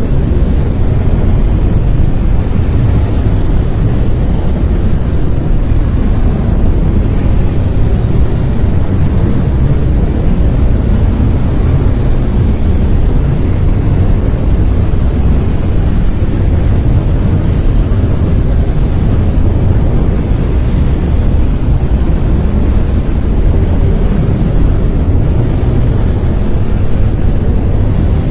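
Steady brown noise: an even, deep rumbling hiss, loudest in the bass and thinning toward the treble, with no changes or events.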